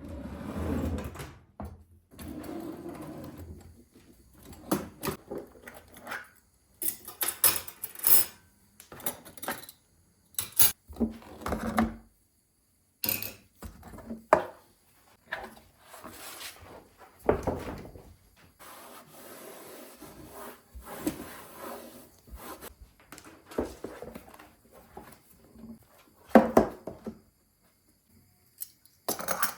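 Household objects being handled while cleaning: irregular knocks, clatters and short rubbing noises, with brief pauses between.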